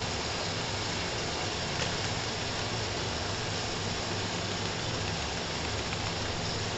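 Chicken frying in a kadai: a steady hiss with a low hum underneath.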